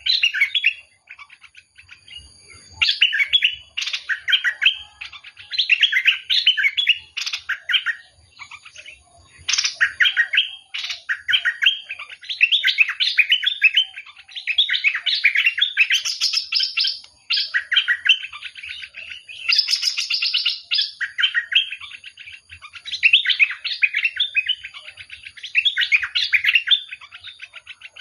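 A songbird of the kind Thai keepers call nok dok taeng, singing: bursts of rapid, chirping phrases a second or two long, repeated again and again with short pauses between them.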